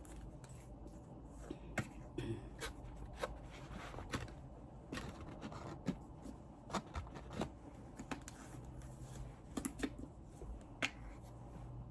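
Close-miked eating of fried chicken wings: irregular small crunches, wet mouth clicks and smacks, several a second at times.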